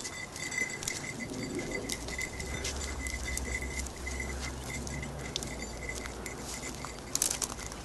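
Scattered light clicks and jingles, like a large dog's collar tags and footfalls as it moves about, with a louder cluster near the end. Underneath runs a rapid, steady high chirping, and a low rumble comes in for a few seconds in the middle.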